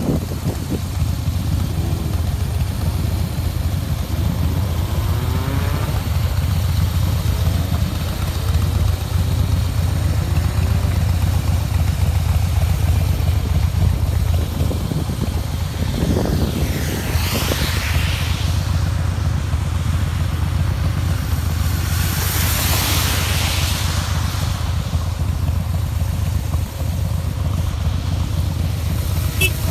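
Harley-Davidson Breakout's V-twin engine running under way with a steady low rumble, its pitch rising a few seconds in as it pulls, mixed with rushing air and road noise. Two broad swells of rushing noise come and go about halfway through and again a little later.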